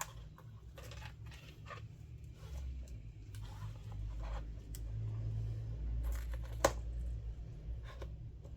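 Small handling noises from work on an iPad's flex cables and parts: light scratches, scrapes and clicks, with one sharp click about two-thirds of the way through, over a low steady hum.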